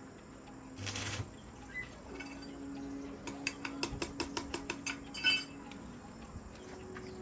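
Metal tools or parts clinking: a quick run of about eight light metallic clicks, roughly five a second, ending in a louder clank, over a faint steady hum.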